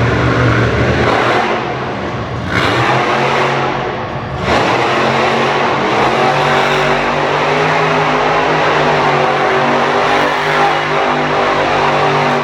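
Monster truck engine running loud and revving, surging in a few bursts over the first several seconds and then held at high revs.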